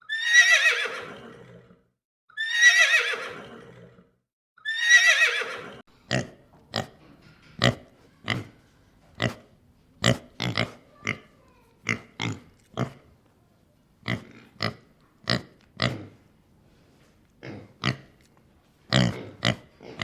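Horse whinnying three times, each neigh about a second and a half long and falling in pitch. After that comes a long run of short, sharp sounds at irregular intervals.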